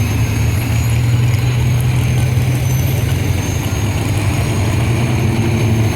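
A heavy pulling-vehicle engine running steadily with a deep, even hum.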